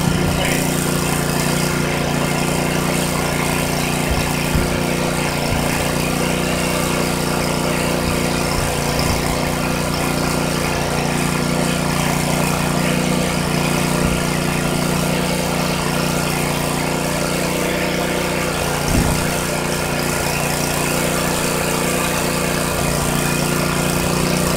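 Airless paint sprayer's pump motor running steadily with a constant hum. A single brief knock comes about three-quarters of the way through.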